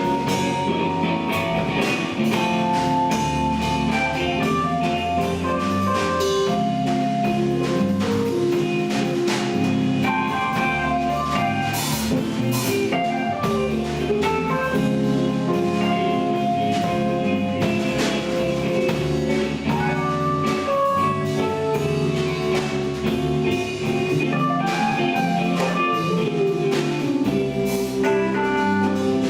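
Instrumental passage of a rock song with no vocals: drum kit keeping a steady beat under guitar playing a melodic line.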